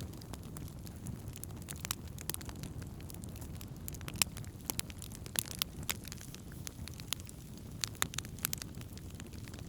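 Wood campfire crackling: irregular sharp pops and snaps over a low steady rush, the loudest pop about four seconds in.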